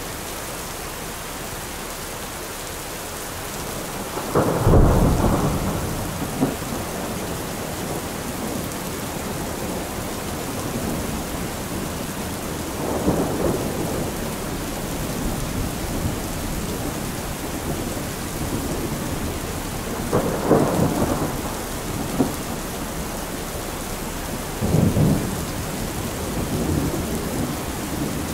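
Thunderstorm ambience: steady rain with several rolls of thunder, the loudest a few seconds in and others spread through the rest.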